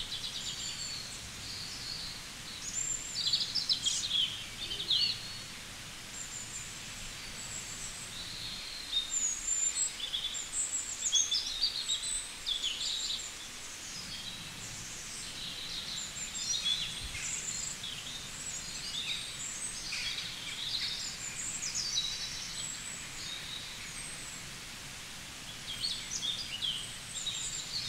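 Birds chirping and twittering in clusters of quick, high calls over a faint steady hiss.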